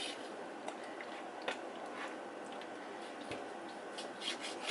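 A few light clicks and taps, the sharpest about one and a half seconds in and a small cluster near the end, over a steady background hiss and hum.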